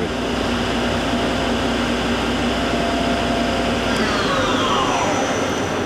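Hardinge Conquest CNC lathe main spindle running at 3,500 RPM, a steady whine made of several tones over a hum. About four seconds in, the pitch falls smoothly as the spindle slows down.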